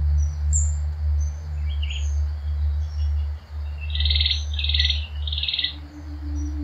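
Birds calling: scattered short high chirps, then three loud trilled calls in quick succession about four seconds in, over a steady low drone.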